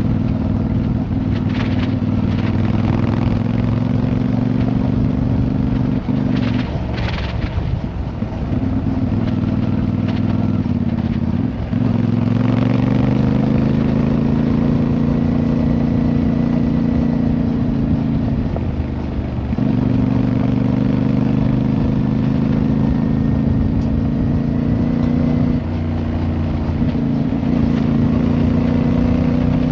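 Motorcycle engine running while riding. Its note holds steady for stretches, with a few breaks where it drops and then settles at a new pitch, as at gear changes.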